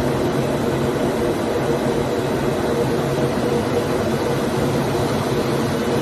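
Steady drone inside an airliner cabin, with a constant low hum and no change throughout.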